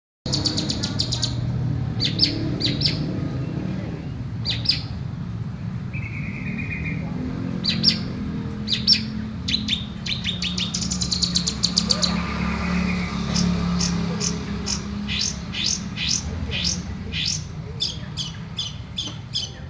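Long-tailed shrike (cendet) singing energetically: quick rattling runs of short sharp notes and scattered high chirps, with two longer harsh notes, over a steady low background hum.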